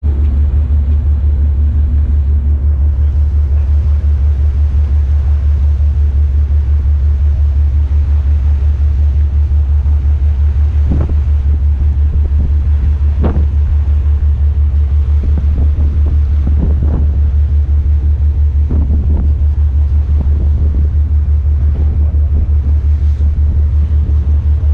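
Taxi boat's engine running under way with a steady, pulsing low rumble. A few short knocks come through past the middle.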